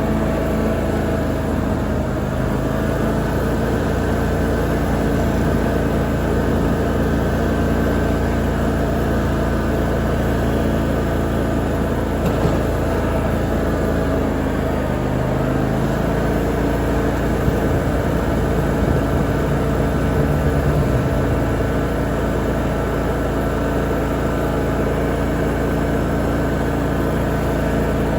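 Lawn mower engine running steadily under load while mowing, its pitch dipping and recovering slightly now and then.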